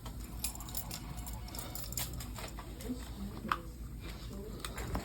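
Faint background voices over a low steady hum, with scattered small clicks and taps.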